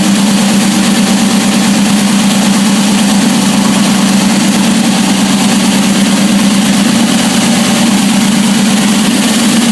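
Freshly built Jon Kaase 520 cubic-inch big-block V8 with a big cam, built on a Ford 460 block, running steadily and loudly on an engine dyno during its first runs.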